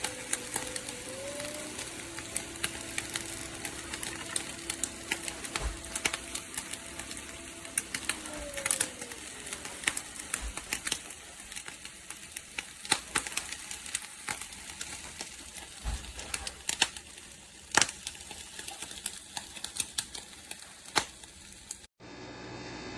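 Nespresso Vertuo Next coffee machine brewing, with crackling, irregular clicks over a faint steady motor tone that steps up about a second in and glides down about eight seconds in. Near the end the sound cuts to a steady hum.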